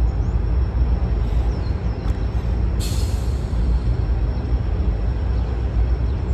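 Freight train of covered hoppers rolling past: a steady low rumble, with a short hiss about three seconds in.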